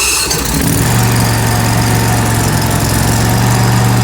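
Spartan RZ zero-turn riding mower's 724 cc V-twin engine, just started, settling into a steady run within the first second.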